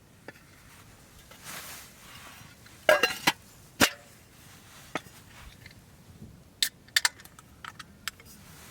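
Small hard objects being handled: a series of sharp clinks and knocks, the loudest a ringing clink about three seconds in and another knock just before four seconds, with a brief rustle before them.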